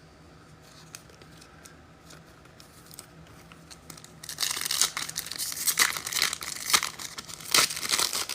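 A trading-card pack being ripped open: the wrapper tearing and crinkling in a run of sharp rustles that starts about four seconds in, after a few seconds of faint room tone.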